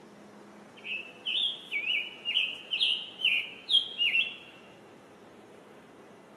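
Scarlet tanager singing: a quick run of about eight short slurred phrases lasting about four seconds, starting about a second in.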